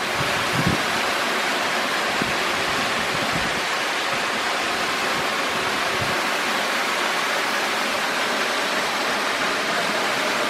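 Waterfall: a steady, loud rush of falling water, with a couple of brief low thumps from wind on the microphone.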